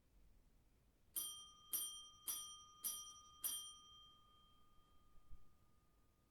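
A small metal bell struck five times at an even pace, about two strikes a second, each ringing on with a clear bright tone that fades away after the last strike.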